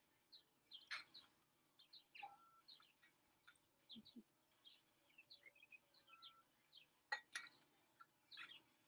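Faint birdsong: many short chirps from small songbirds, scattered throughout, with two sharp clicks close together about seven seconds in.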